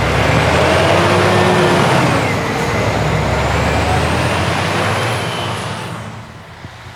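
Heavy truck's diesel engine running loud as it drives past, its pitch shifting slightly, then fading away about six seconds in.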